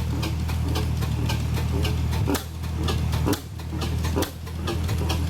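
Antique single-cylinder stationary gas engine running, with a steady low hum and a quick, regular clicking of about four or five beats a second.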